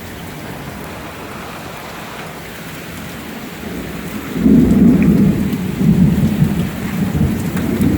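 Heavy rain falling steadily with hail, then a loud rumble of thunder starting about four seconds in and rolling on, the loudest part.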